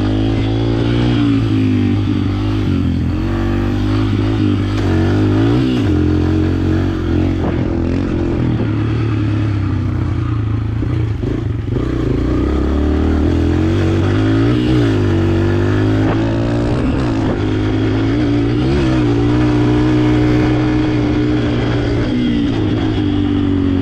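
Dirt bike engine running while being ridden, its pitch rising and easing off again several times as the throttle is worked.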